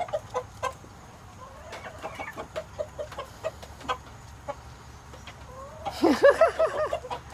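Backyard hens clucking in short, repeated clucks, with a louder run of rising-and-falling calls about six seconds in.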